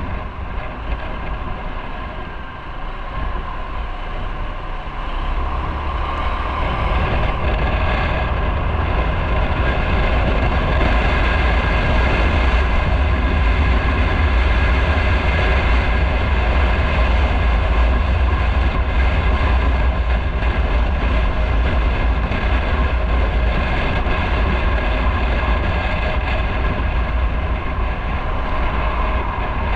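Motorcycle riding on the road: steady engine and road noise with a heavy low rumble of wind on the microphone. It grows louder about five to seven seconds in, then holds steady.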